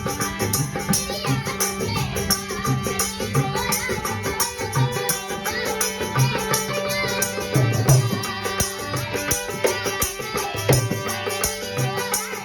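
Indian folk music: a hand drum keeping a steady beat over a sustained drone, with fast rattling percussion.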